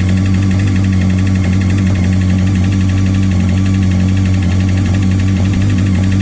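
Honda CBR 954 RR inline-four engine idling steadily with a fast, even ticking knock, the piston slap this model is known for, where the short piston skirts strike the cylinder walls.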